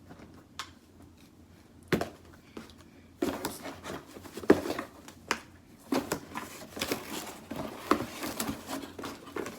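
Packaging being handled: a couple of isolated clicks, then from about three seconds in a run of irregular rustling, crinkling and tapping.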